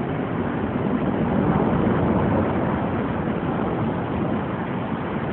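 Steady, even noise of a thunderstorm on a phone microphone, with no sharp thunderclap.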